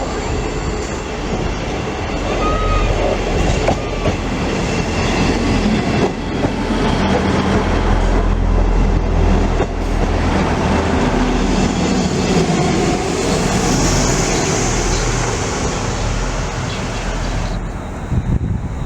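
A train passing close by, its wheels running loudly and steadily over the rails, dying away near the end.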